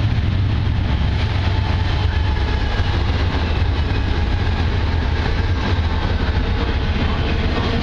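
BNSF freight train passing close by: a steady, loud, low rumble of the train rolling along the rails.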